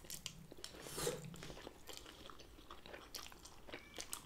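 Faint, close-up chewing of poke and sushi: soft, wet mouth sounds with small clicks, a little louder about a second in.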